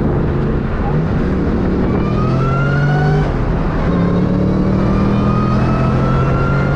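Ford Mustang V8 accelerating hard under full load. The engine note climbs, breaks briefly about three seconds in, then climbs again more slowly.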